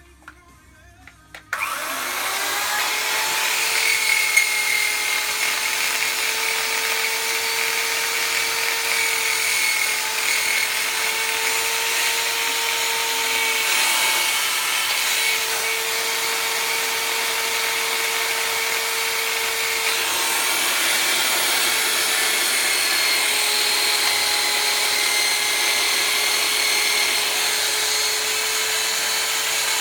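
A small handheld rotary power tool starts about a second and a half in and runs steadily, polishing an aluminium engine case. It makes a steady whine over a hissy rubbing noise, and the pitch dips briefly a couple of times as it is pressed into the metal.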